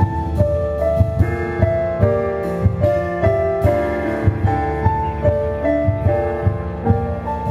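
Live rock band playing an instrumental passage with no singing: a keyboard melody of short stepping notes over bass and a steady drum beat of about two thumps a second.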